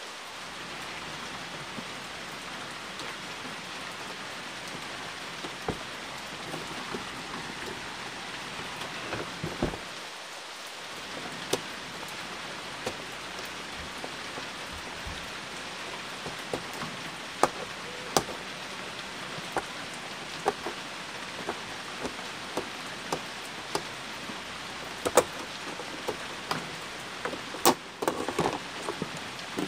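Steady rain falling, an even hiss, with scattered sharp clicks and taps through it, a few louder ones near the end.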